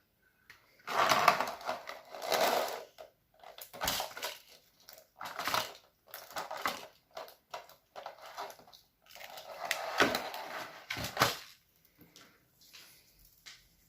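Slime being mixed and squeezed by hand, with irregular bursts of squishing and crackling. The loudest stretches come about a second in and again around ten seconds in.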